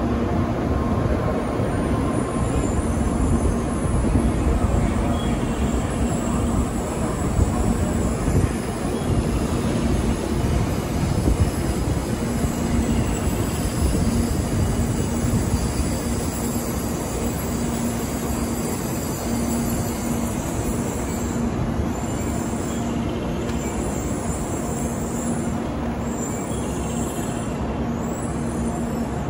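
Shinkansen train beside the platform: a steady rumble with a constant low hum running through it.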